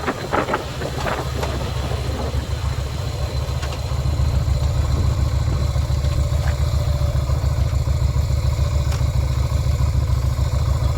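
Yamaha Virago 250's V-twin engine running with a steady low, pulsing beat that grows louder about four seconds in and cuts off abruptly at the very end.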